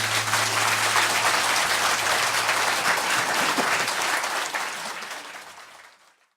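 Audience applauding at the end of a live folk song, steady for a few seconds and then fading out.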